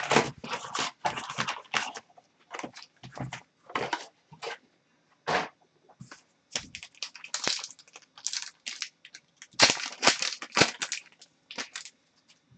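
Trading-card pack wrappers being torn open and crinkled, and cards being handled, in a run of short, irregular rustles and rips.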